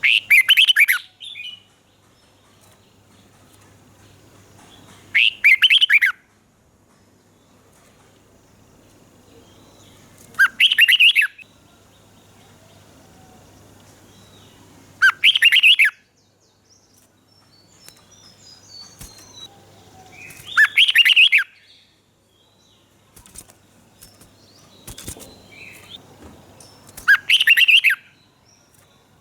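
Red-whiskered bulbul singing: short, loud, warbling song phrases of about a second each, repeated roughly every five seconds, with soft chirps in between during the second half.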